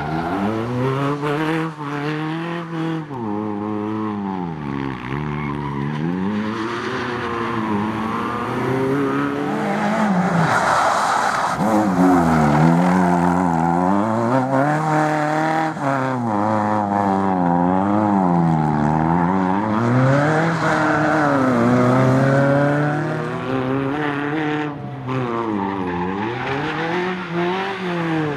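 A car engine revving hard and dropping back again and again, every few seconds, as a hatchback is driven flat out through tight autoslalom turns.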